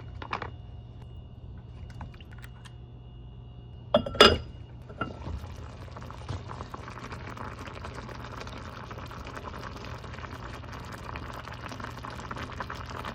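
A hot pot of broth simmering, with a steady crackle of bubbling that sets in about five seconds in, just after a sharp clatter.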